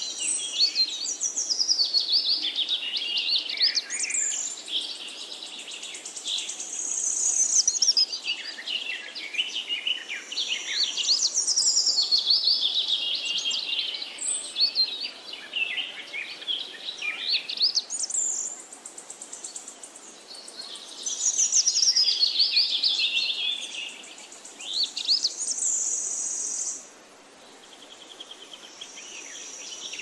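Birds chirping and singing, a dense mix of varied whistles and quick trills, with a steady high buzz coming and going; it grows quieter near the end.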